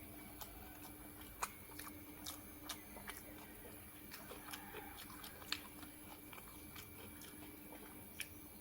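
A person chewing food, with irregular sharp crunchy clicks, a dozen or so, over a faint steady hum.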